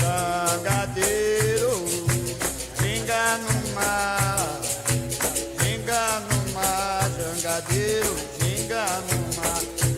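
Recorded capoeira song: a solo voice singing a melody over rattling shaker percussion and low drum strikes in a steady beat.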